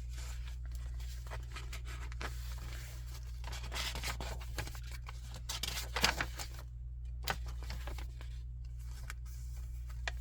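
Paper pages and cards of a handmade junk journal being handled and turned, with irregular rustling and crinkling that is loudest about four and six seconds in.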